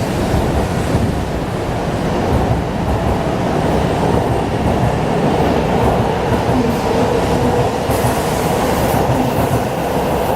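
500-series Shinkansen train departing and running past, a loud steady rush of wheel and running noise with a faint steady hum.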